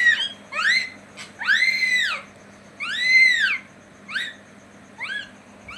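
Pet parrot calling: about nine loud, arched calls that each rise and fall in pitch. Two longer ones come near the middle and the rest are short.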